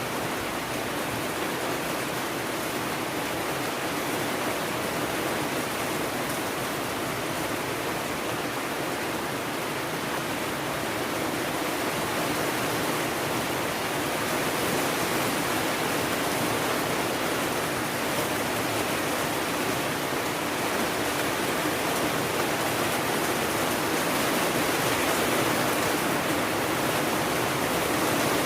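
Steady, heavy rainfall: a dense, even hiss with no individual drops standing out, growing slightly louder over the second half.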